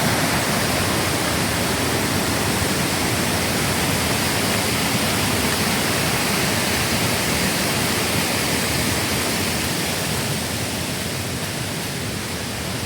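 Small woodland waterfall and creek in spate after heavy rain, water rushing and pouring in a steady loud rush.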